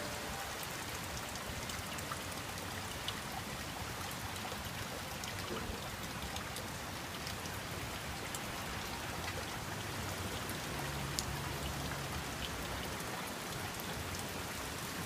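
Heavy rain coming down in sheets: a steady hiss of rainfall with many small individual drop ticks scattered through it.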